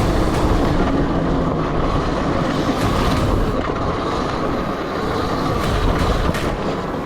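Electric dirt bike being ridden: a steady high whine from the electric motor and chain drive over a low rumble of wind and tyres on dirt, with a few knocks from bumps.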